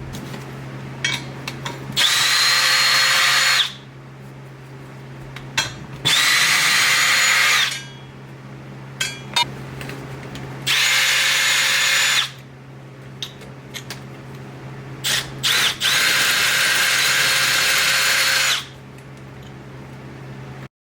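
Handheld power drill/driver running in four bursts of about two seconds each, each at a steady pitch, with small clicks and knocks of tools between them. A steady low hum runs underneath.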